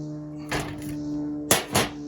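Three knocks or clanks, one about half a second in and two louder ones close together near the end, over a steady droning hum.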